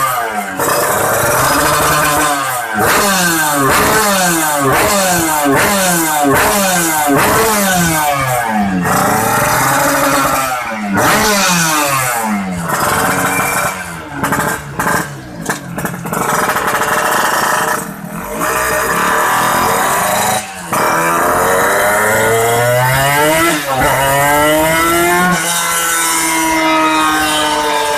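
Motorcycle engine fitted with a Creampie aftermarket exhaust, revved hard in quick repeated throttle blips, its pitch shooting up and dropping again and again. Near the end come a few longer, slower revs.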